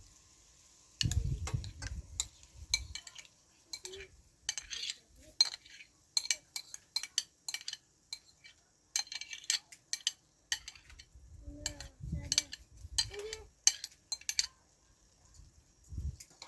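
Dishes and utensils clinking and knocking in short, irregular clicks, with a few duller low thumps.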